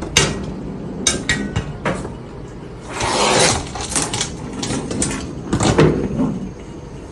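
A series of irregular knocks and clatters of hard household objects being bumped and moved, with a longer rustling clatter about three seconds in.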